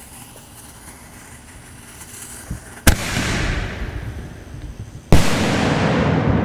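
Noise shell fired from a mortar: a sharp bang of the lift about three seconds in, then a louder report as the salute breaks a little over two seconds later, each followed by a long rolling echo.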